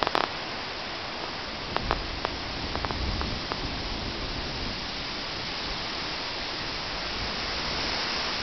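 Steady rushing of stormy wind and rain through hillside vegetation, with a few light ticks about two to three and a half seconds in.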